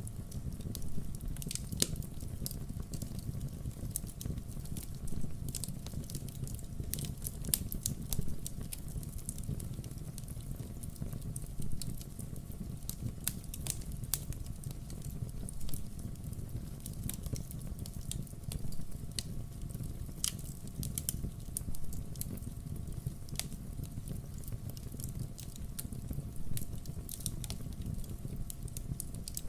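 Wood fire burning, with irregular sharp crackles and pops of the logs over a steady low rush of the flames.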